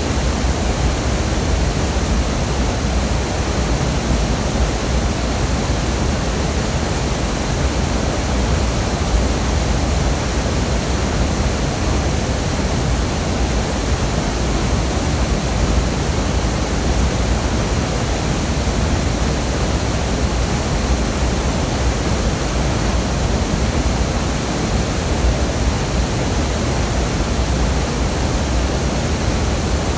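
Waterfall: a loud, steady rush of falling water, heavy in the low end and unchanging throughout.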